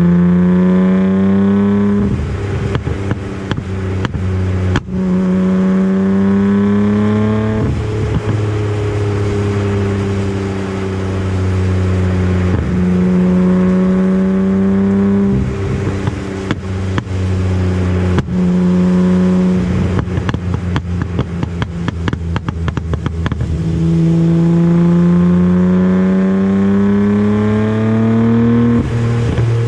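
Nissan Skyline R34 GT-R's RB26DETT straight-six, through a custom 3-inch exhaust, accelerating hard several times. Its pitch climbs steadily and drops away at each shift or lift, with lighter cruising stretches in between. Off throttle there are rapid clusters of sharp exhaust pops and crackles, densest about two-thirds of the way through.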